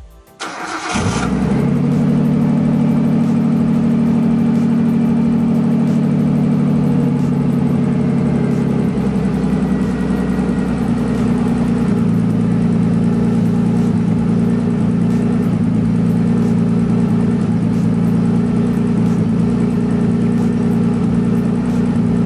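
Nissan Skyline GT-R's RB26DETT twin-turbo straight-six cranked on the starter and catching within about a second, then idling steadily. The idle settles a little lower about nine seconds in.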